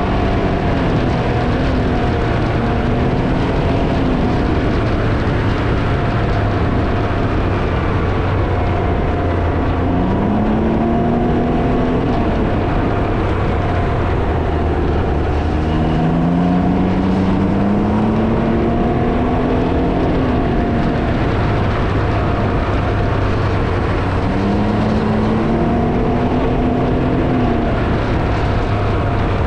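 Can-Am Ryker three-wheeler riding at speed: heavy wind buffeting on the microphone over the steady engine. The engine's pitch rises a few times as it accelerates.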